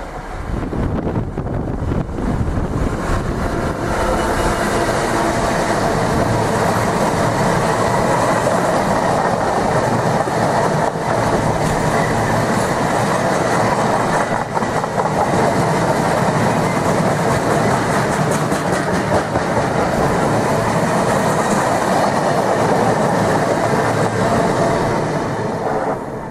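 A train passing close by: a loud, steady rush of wheel and rail noise that builds over the first couple of seconds, holds, and cuts off suddenly at the end.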